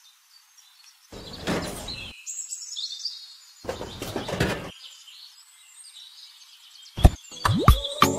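Two short bursts of noise, about a second each, with a bird chirping between them; sharp clicks and music begin near the end.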